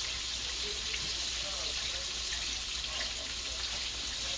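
Breaded chicken pieces frying in hot oil in a skillet: a steady sizzle.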